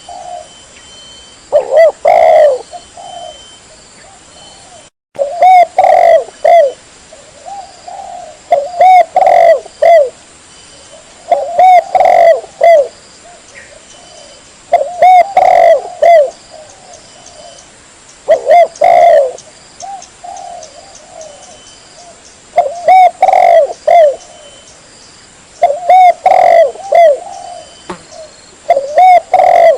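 Spotted dove (tekukur) cooing its lure call: a phrase of several coos repeated about every three seconds, loud and close.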